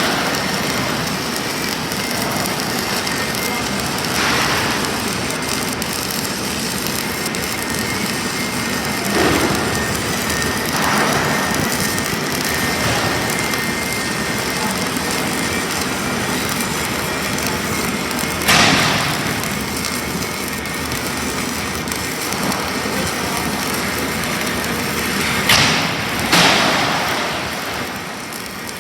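Self-shielded flux-core arc welding: a steady crackling arc, with a few brief louder surges in the second half.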